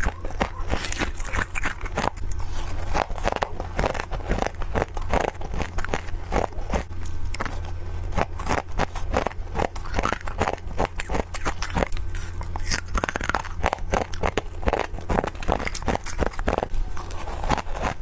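Freezer frost being bitten and chewed in quick succession: a steady run of crisp crunches and crackles, several a second.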